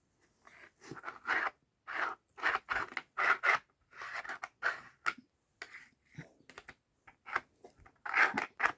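Dachshund nosing and pawing at the sliding pieces of a dog treat puzzle toy, checking the compartments for leftover treats: a run of short, irregular scraping and scratching sounds.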